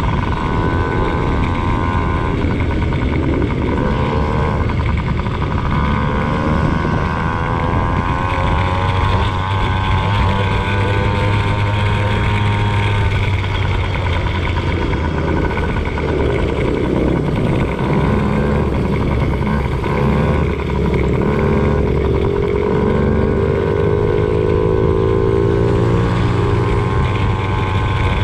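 Motocross bike engine revving up and down as the throttle is worked through a lap, its pitch rising and falling again and again over a rough low rumble.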